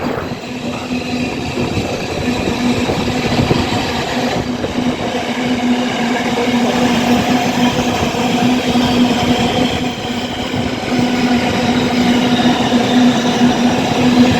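Freight train hauled by a Class 66 diesel locomotive passing, its wagons rolling over the rails with a steady hum underneath.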